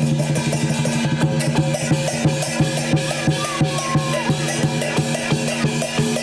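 Lion dance percussion: a big Chinese drum beaten in a steady driving beat, with clashing cymbals and a gong ringing underneath.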